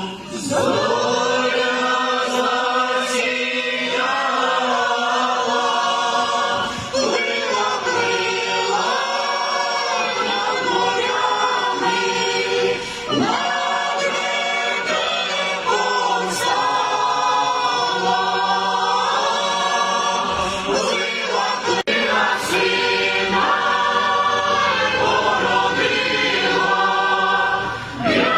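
Church choir singing a Ukrainian Christmas carol unaccompanied, in phrases a few seconds long with short breaks for breath.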